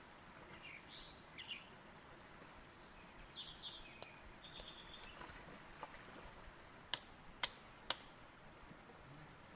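Birds chirping in short, scattered calls over a faint outdoor background. About seven to eight seconds in come three sharp clicks or snaps, close together.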